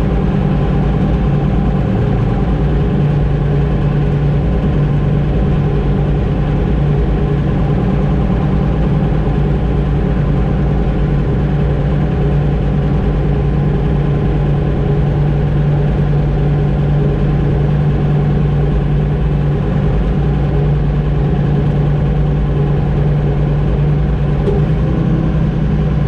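Heavy farm machine's engine running steadily at constant speed, a loud, even low hum with no change in pitch.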